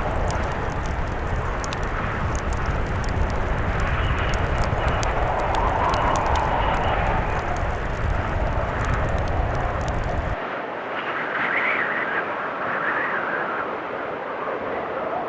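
Blizzard wind howling in rising and falling gusts, layered with a crackling fireplace and a low rumble. The crackle and rumble cut off suddenly about ten seconds in, leaving the wind alone.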